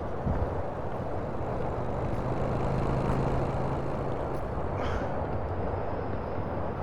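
Steady vehicle rumble with a low engine hum, and a brief hiss about five seconds in.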